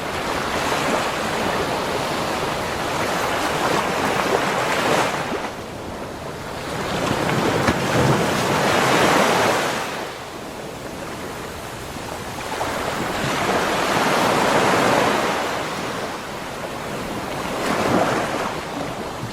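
Sea waves breaking and washing up a beach shore, the surf swelling and falling back in slow surges about every five seconds, four times.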